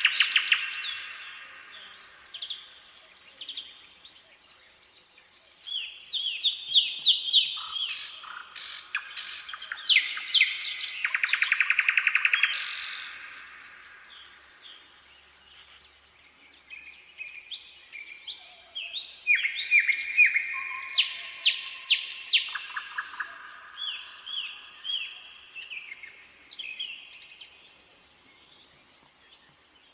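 Nightingale singing: a run of varied phrases, each a few seconds of fast repeated notes and rattling trills, with short pauses between them.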